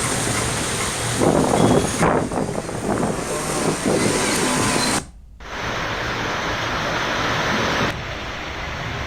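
Steady rushing noise of heavy rain, with road traffic mixed in during the first half. The sound cuts out briefly about five seconds in, then the steady rush resumes.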